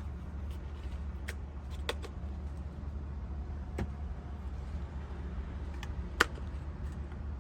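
Sharp plastic clicks and knocks from handling a cordless handheld car vacuum, as its dust container is opened, over a steady low rumble. There are four clicks, the loudest near the end.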